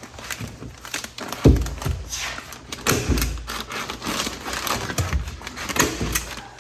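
Scattered knocks, clicks and a few low thuds with rustling from building materials being handled during construction work on a small wooden structure.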